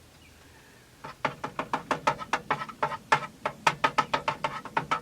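Utensil rapidly tapping and scraping against a frying pan while stirring an egg into a scramble, about five strokes a second, starting about a second in.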